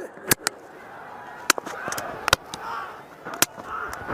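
Sharp cracks of a cricket ball striking a bat, about one a second and irregularly spaced, over a steady murmur of background noise.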